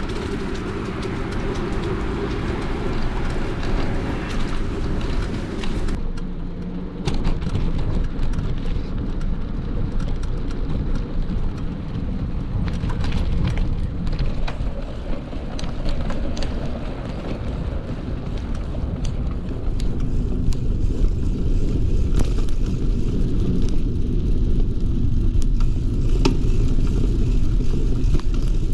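Noise of a bicycle ride: a steady low rumble of wind and tyres rolling on the trail, with scattered small clicks and rattles. The deepest rumble grows louder about two-thirds of the way through.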